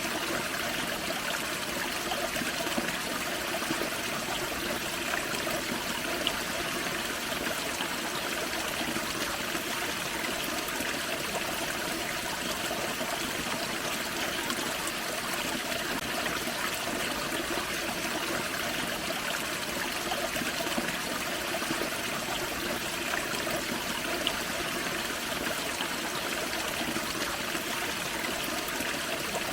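Forest creek spilling over a small waterfall: a steady rush of flowing water with trickling and splashing.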